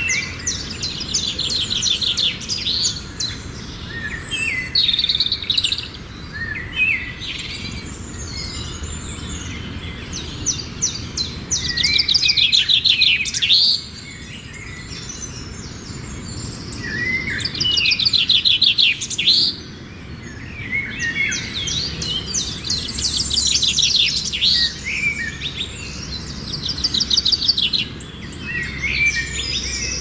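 Songbird song: fast, high trilled phrases lasting one to three seconds, repeated every few seconds, over a low steady background rumble.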